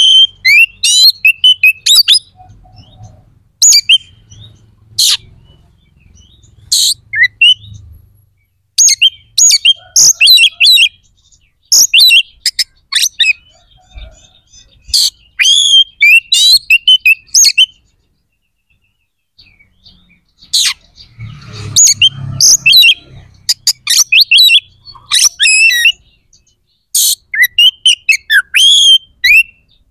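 Oriental magpie-robin singing loudly in repeated bursts of quick, varied whistles and sharp chattering notes, with brief gaps and a pause of about two seconds just past the middle. This is a male's full song, of the kind played to provoke other magpie-robins.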